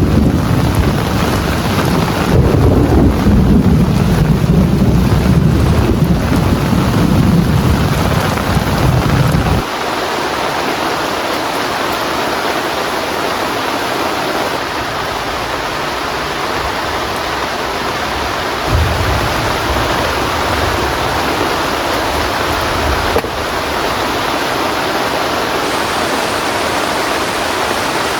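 Heavy rain falling steadily, with a deep rumble of thunder through roughly the first ten seconds that stops abruptly, and a second, weaker roll of thunder a little past the middle.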